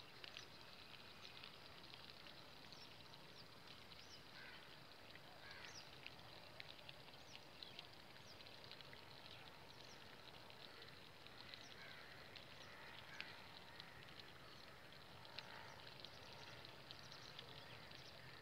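Faint outdoor ambience with many small, scattered bird chirps and calls.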